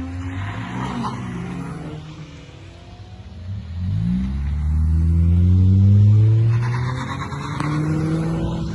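Car engine pulling away: the note falls and fades over the first two seconds. Then an engine accelerates, rising in pitch and loudest about six seconds in, before levelling off near the end.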